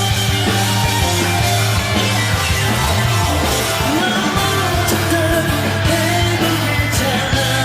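Live band playing an upbeat rock-style worship song, with singing over it.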